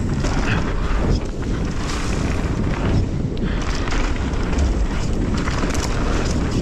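Mountain bike descending a dirt trail: wind rushing over the action camera's microphone and knobby tyres rolling over dirt and rocks, with frequent short clatters from the bike over rough ground.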